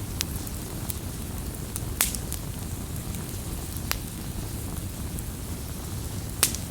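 Crackling campfire: a steady low rumble of burning wood with a few sharp pops, the loudest about two seconds in and near the end.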